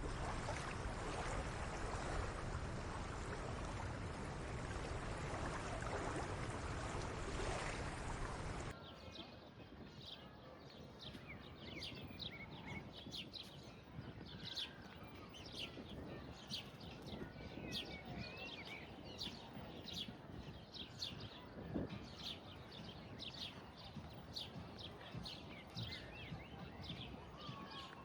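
A steady rushing noise cuts off abruptly about nine seconds in. What follows is quieter outdoor ambience with small birds chirping over and over in short, high calls.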